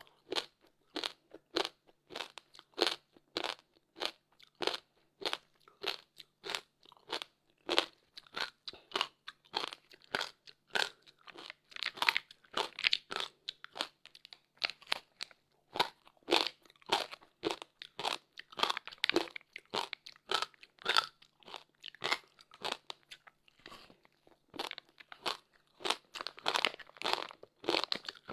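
Close-up crunching and chewing of hard frozen passion fruit ice, a steady run of sharp crunches, several a second.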